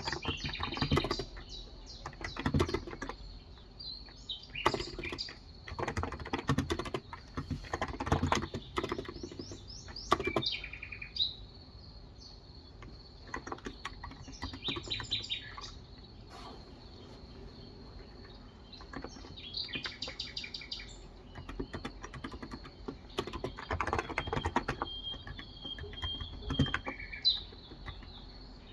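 Typing on a Cox Endeavor electrocapacitive (Topre-style) 35 g tenkeyless keyboard, in bursts of keystrokes with pauses between, while birds chirp.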